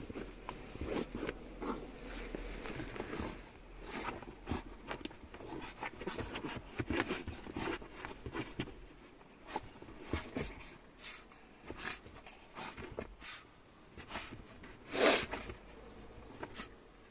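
A pet dog grumbling and snorting in protest, upset after being given an injection, with scattered small clicks and shuffles; one louder huff comes near the end.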